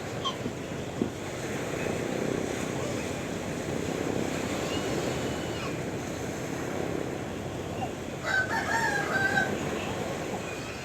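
Sea waves washing steadily, with a rooster crowing once about eight seconds in.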